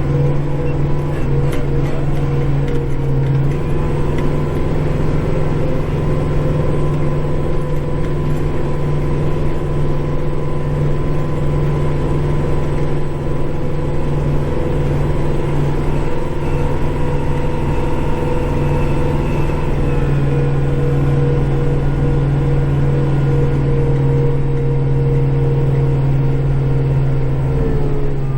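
Tractor engine running steadily at a constant speed, its pitch falling as it throttles down near the end.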